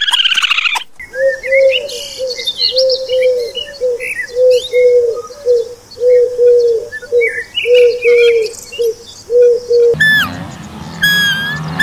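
A bird giving short, low hooting or cooing notes about twice a second, over smaller birds chirping. It opens with a rapid pulsing call in the first second, and near the end a different, higher falling call comes twice.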